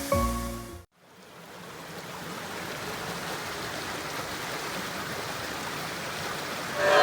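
Rushing water, fading in about a second in and then running steady.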